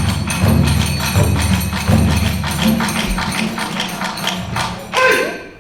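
Kagura festival ensemble music: big and small taiko drums beating with tebyoshi hand cymbals clashing in a rapid rhythm. Near the end the drumming thins and briefly stops.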